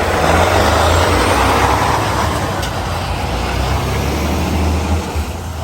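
Semi-truck's diesel engine idling under a loud hiss of air that eases off after the first couple of seconds, typical of the air brakes being released.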